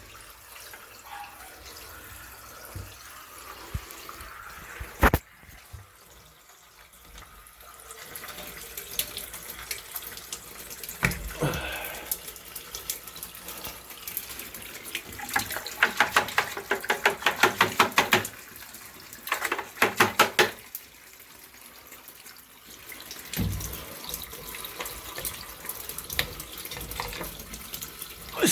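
Water running from a heating manifold's drain valve while air is bled from a gas boiler circuit, spitting in bursts of rapid spurts in the second half. There is one sharp knock about five seconds in.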